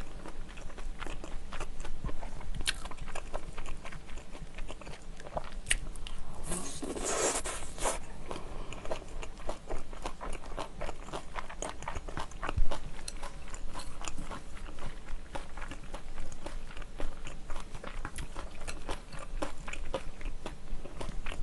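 Close-miked eating sounds: chewing and crunching of kimchi fried rice and kimchi, with the spoon clinking and scraping on a ceramic plate. A louder stretch of noise comes around seven seconds in, and a sharp click about twelve seconds in.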